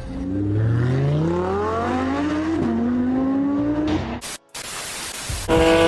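Car engine accelerating hard, its note rising, dropping at a gear change about two and a half seconds in, then rising again. It breaks off abruptly a little after four seconds in, followed by a burst of noise and then a loud, steady engine note.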